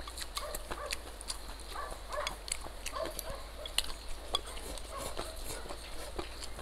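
Close-up chewing and mouth smacking of a person eating, a run of irregular short clicks and smacks.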